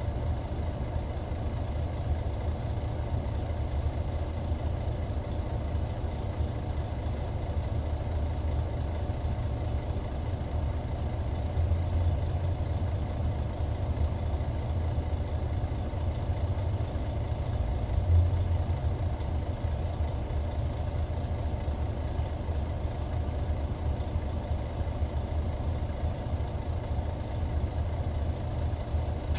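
Hyundai Universe Comfort coach's D6CC Powertec 380 six-cylinder diesel engine running steadily with a deep low hum. There is a brief louder swell about 18 seconds in.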